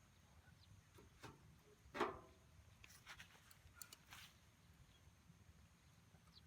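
Wood fire crackling faintly in a home-made secondary-combustion fire pit: scattered sharp pops and clicks, with a louder knock about two seconds in and a run of pops a second later.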